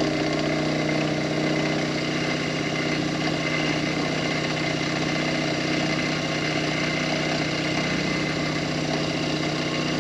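Benchtop milling machine running steadily with an even motor hum while a chamfer bit cuts a chamfer along the top edge of an aluminium block.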